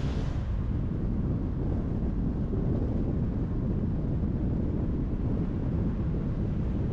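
Steady low rumble of road and wind noise from a car driving on a highway. A brighter hiss dies away in the first half second.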